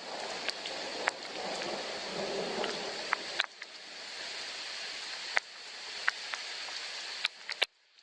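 Soft rain falling, a steady hiss with scattered sharper drops. A lower rumble under the rain cuts off suddenly about three and a half seconds in, and the sound briefly drops out near the end.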